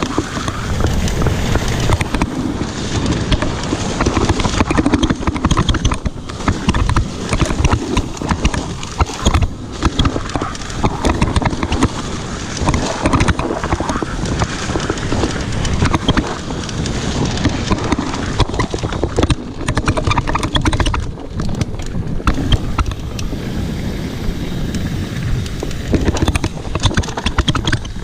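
Mountain bike riding fast down a rough dirt trail: tyres crunching over dirt and rocks with constant rattling and knocking of the frame and chain over bumps, and wind buffeting the microphone.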